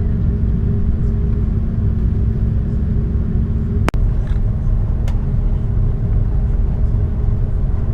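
Cabin noise inside an Airbus A330 taxiing: a steady engine hum over a low rumble, broken by a brief click and dropout about four seconds in.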